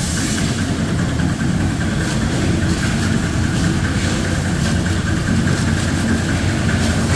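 A motor running steadily with a low hum and a hiss over it, the sound of the machinery during an engine wash.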